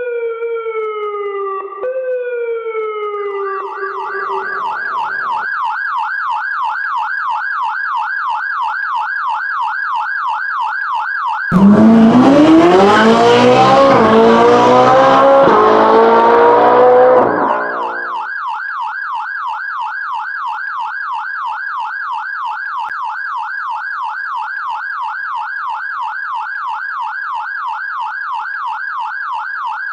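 Police siren wailing in a fast, even warble. From about a third of the way in, a car engine revs up loudly for about six seconds, climbing in pitch with a couple of small steps, and covers the siren. Then the engine cuts off and the siren warbles on alone.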